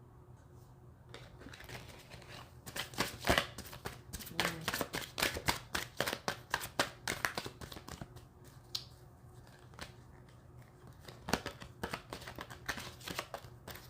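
A tarot deck being shuffled by hand: a quick, dense run of papery card flicks and snaps that starts about a second in.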